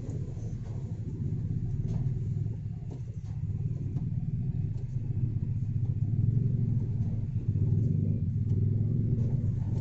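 Low, steady engine and road rumble of slow stop-and-go traffic, heard from inside a car.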